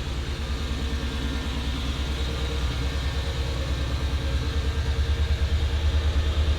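Pickup truck engine idling: a steady low rumble with an even pulse, growing a little louder near the end.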